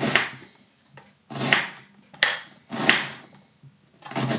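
Knife cutting through cabbage onto a wooden chopping board: four separate chops about a second and a half apart, each a short crunch ending in a knock on the board.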